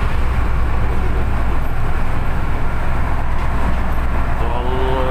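Steady rumble of an LRT light-rail train heard from inside the carriage, a constant low running noise with no distinct clanks or announcements.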